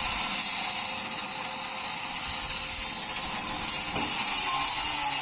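Sawmill machinery running with a loud, steady hiss and no clear rhythm.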